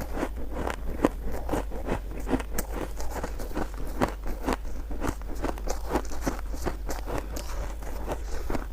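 Close-up chewing and biting of crunchy shaved ice: a run of short, sharp crunches, several a second, with no pauses.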